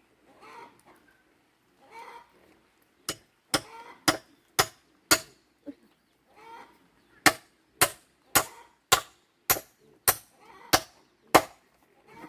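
A hand tool striking hard over and over, about two blows a second, starting about three seconds in and stopping near the end. Farm animals call briefly in between, among them poultry.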